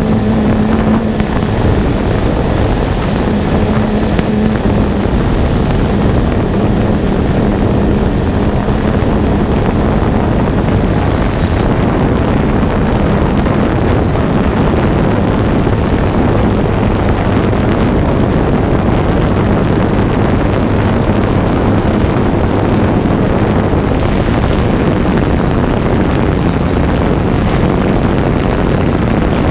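Steady loud propeller and motor noise of a multirotor drone in flight, with wind rushing over the microphone and a faint wavering hum from the motors; no firework bangs stand out.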